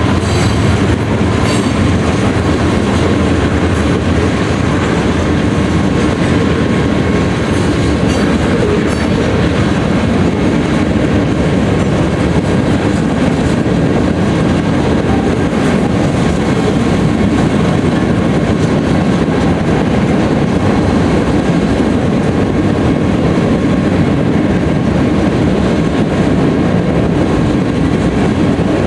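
Freight train cars rolling past, a loud steady rumble with wheels clattering over the rail joints.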